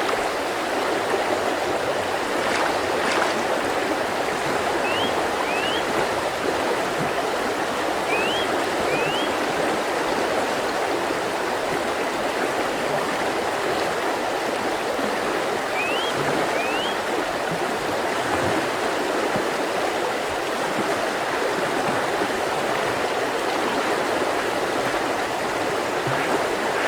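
Mountain river running: a steady, unbroken rush of water. Three times a bird gives a pair of short rising whistled notes.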